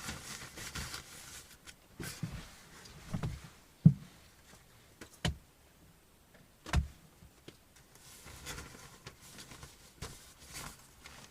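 Rustling and a few short dull thumps from someone moving about and handling things, with the sharpest knock about four seconds in.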